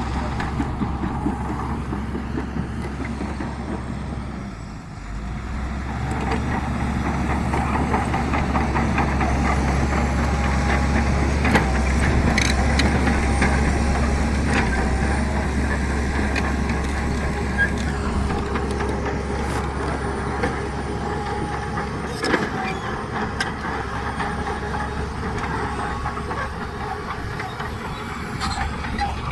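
Heavy diesel earthmoving machinery running steadily with a deep drone, dipping briefly about five seconds in and then building up again. A few sharp metallic clanks come through near the middle and once later on.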